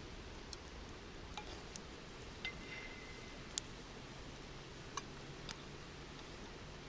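Campfire crackling: a handful of sharp, irregular pops and snaps of burning wood over a steady low background noise.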